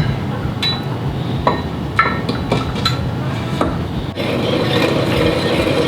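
Metal engine parts clinking and knocking lightly against each other as they are set into a motorcycle engine's crankcase, about six short ringing clinks. A steady noise sets in about four seconds in.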